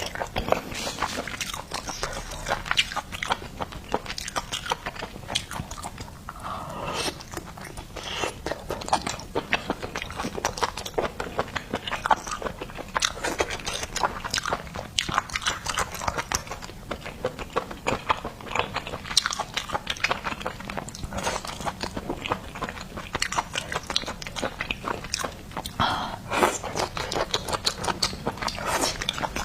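A person biting and chewing seafood close to the microphone: a dense, irregular run of small clicks and mouth noises with no pauses.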